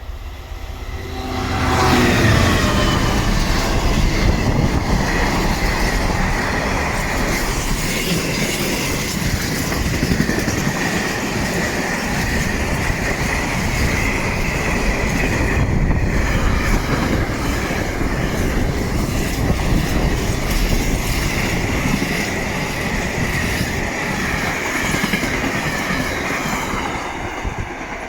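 A train passing at close range, the rumble of its wheels on the rails coming up sharply about a second and a half in and holding until near the end. A steady high-pitched wheel squeal runs over the noise throughout.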